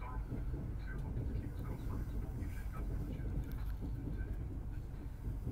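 Steady low rumble of a train in motion, heard from on board, with faint voices in the background.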